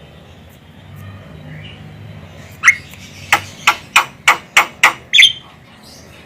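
Javan myna calling: after a quiet start, a run of eight short sharp calls, coming faster, with the last one longer.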